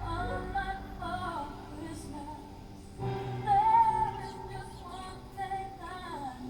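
Music with a female voice singing a slow, wavering melody over a soft accompaniment, holding a louder note about halfway through.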